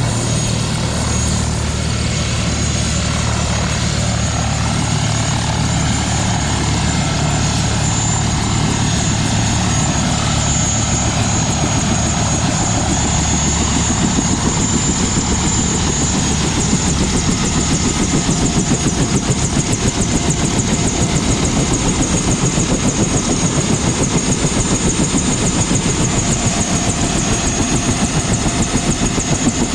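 Bell UH-1 Huey helicopter running: a steady turbine whine under the rotor noise, with a rhythmic beat of the rotor that grows more pronounced about halfway through.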